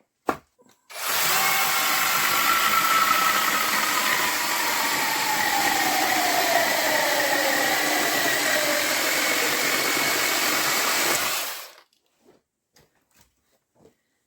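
Brushless cordless mini chainsaw running and cutting through a big piece of cedar for about ten seconds. Its whine falls steadily in pitch during the cut, then the saw stops suddenly. A short click comes just before it starts.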